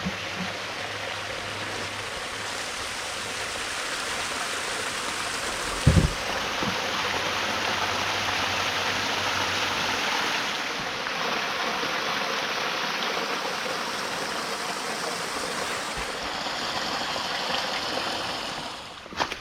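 Steady rushing of a waterfall, with a single thump about six seconds in.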